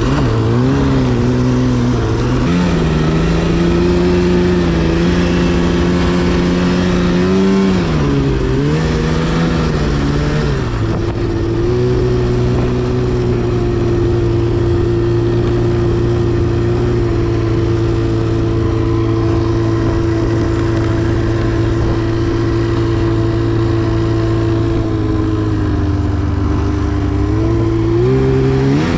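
2010 Arctic Cat CFR 1000 snowmobile's two-stroke engine running as it warms up. The revs step up and dip a few times in the first ten seconds, hold steady for a long stretch, then rise again near the end.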